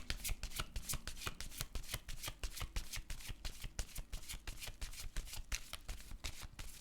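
Tarot cards being shuffled by hand: a steady run of quick, papery card clicks, several a second.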